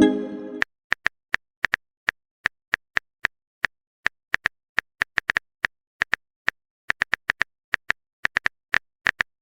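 Smartphone keyboard typing clicks: short, sharp taps a few times a second at an uneven pace, each with a slight high ring. A pitched message-alert chime fades out just at the start.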